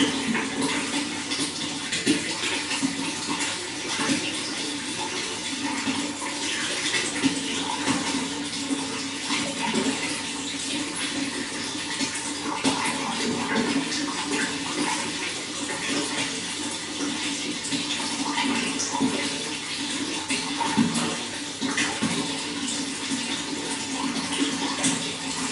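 Running water flowing steadily, with continual small splashes.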